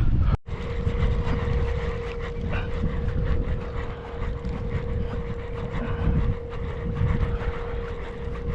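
Wind buffeting the microphone on open water, with a steady hum throughout; the sound cuts out briefly near the start.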